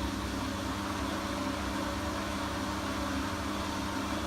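Siemens washing machine running its spin cycle with a single towel in the drum: a steady motor and drum hum with a whir over it, and the machine running shaky.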